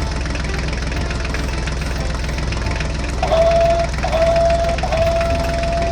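Engine idling steadily with an even knocking patter. From about three seconds in, a steady high tone sounds twice briefly and then holds for about two seconds.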